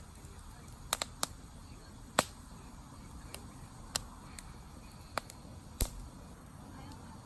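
Wood campfire crackling: sharp, irregular pops, about eight of them, the loudest a little over two seconds in, over a low steady rumble.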